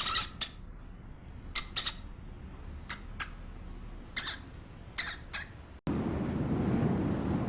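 Short, sharp bird squawks, about ten of them, often in quick pairs. A little before the end the sound cuts abruptly to a steady low rumble.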